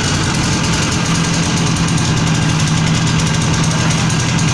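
Zanella Andina 125cc motorcycle engine running at a steady idle.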